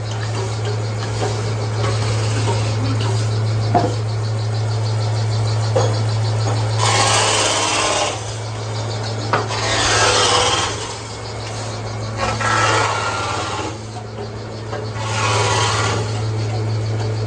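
Sawmill machinery running with a steady low hum, and wood being cut in four rasping passes of about a second each in the second half.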